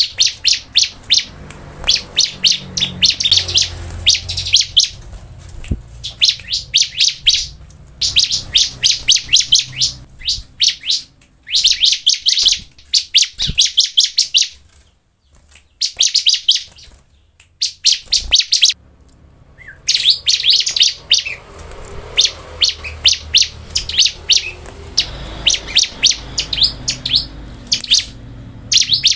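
Bar-winged prinia (ciblek) singing: bursts of rapid, high-pitched chirping trills, each a second or two long, with a few seconds' pause around the middle.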